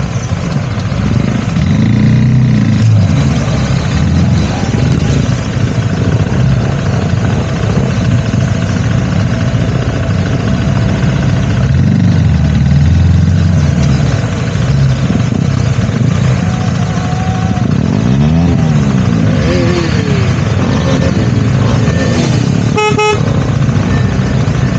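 Motorcycle engine running under way with wind rushing over the microphone, its revs rising and falling briefly later on. A short horn toot sounds near the end.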